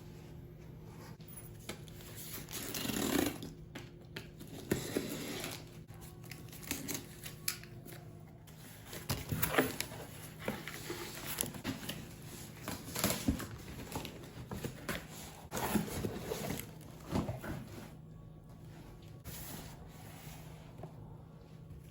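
Objects being handled: scattered light knocks, clicks and rustling, irregular and a second or two apart, over a faint steady hum.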